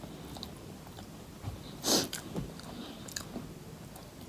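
Close-up eating sounds: quiet chewing and small mouth clicks while finishing the last fried potatoes, with one louder bite about two seconds in.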